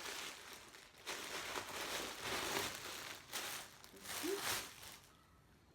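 Plastic wrapping crinkling and rustling in repeated bursts as a packaged sweatshirt is handled and unwrapped. It stops near the end.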